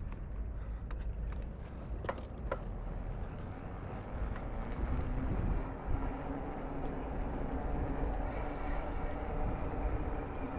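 Steady low rumble of wind and riding noise on a moving e-bike, with two light clicks about two seconds in and a steady hum joining about halfway through.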